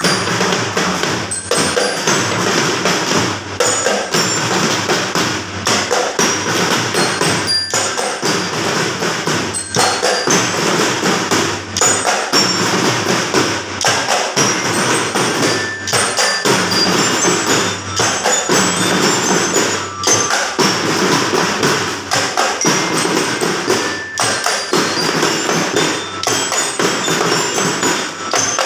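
Percussion-led music: a bell-like mallet melody of short high notes over drum thumps, with a strong accent about every two seconds.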